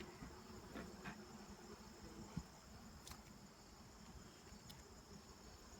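Honeybees buzzing faintly around a busy hive as a low steady hum, under a steady high-pitched insect trill, with a few soft clicks.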